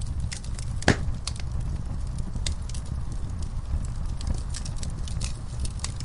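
Wood fire burning in an outdoor fireplace, with a steady low rumble of flames and irregular crackles and pops, the loudest a single sharp pop about a second in.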